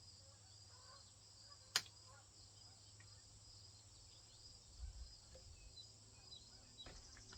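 Faint, steady chirring of insects, with one sharp click a little under two seconds in.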